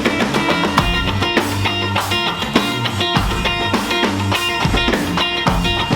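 Rock band playing a song together: electric guitar over bass and drums keeping a steady beat.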